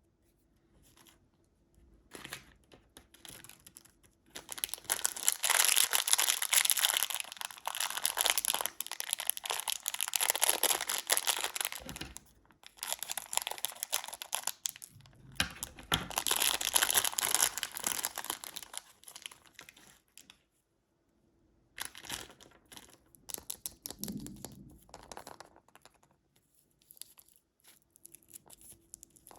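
Candy wrapper being crinkled and torn open by hand: two long stretches of loud crackling and ripping, with softer rustles and crinkles in between and near the end.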